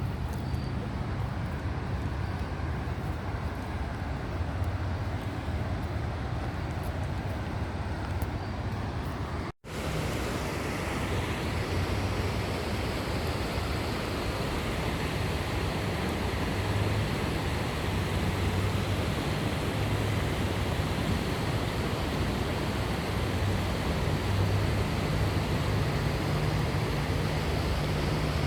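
Steady rushing of the Youghiogheny River at Ohiopyle Falls, with a low rumble underneath. A brief dropout comes about a third of the way in, after which the rush is louder and brighter.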